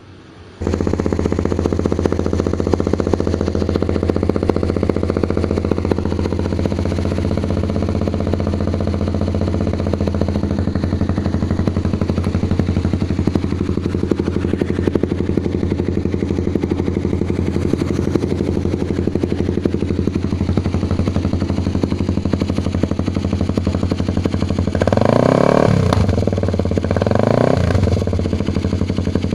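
Kawasaki Ninja motorcycle idling steadily through an Alpha aftermarket exhaust (type 17), coming in sharply about half a second in. Near the end the throttle is blipped twice, the exhaust note rising and falling each time.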